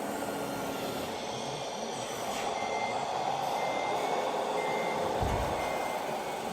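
Reversing warning beeps from a radio-controlled scale truck's sound module, a short high beep repeating about twice a second from a few seconds in, over steady background noise, with a dull thump about five seconds in.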